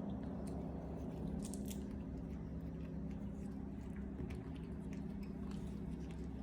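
Monkeys chewing and biting fruit: scattered small crunching, smacking clicks over a steady low hum.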